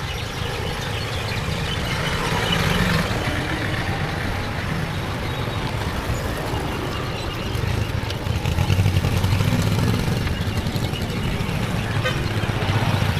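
Steady road noise from a ride: a low engine hum mixed with wind rumbling on the camera microphone. It swells louder for a couple of seconds about eight seconds in.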